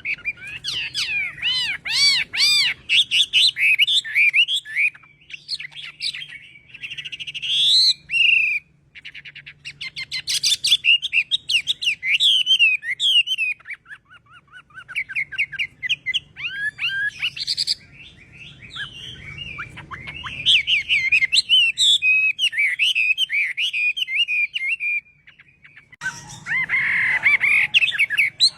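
Chinese hwamei singing a long, varied song of rapid whistled phrases and trills, broken by short pauses about 8 and 14 seconds in and again near the end, over a faint low hum.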